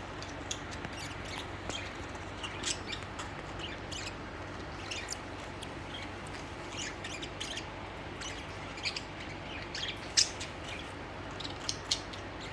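Pet budgerigars chirping and twittering in short, scattered high calls over a steady low hum, with one louder chirp about ten seconds in.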